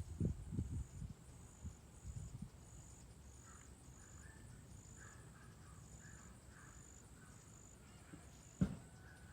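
Faint outdoor insect chorus, a high chirp repeating about every half second, with a bird calling in a quick repeated series from about three seconds in. Handling bumps on the microphone at the start, and a single sharp click near the end.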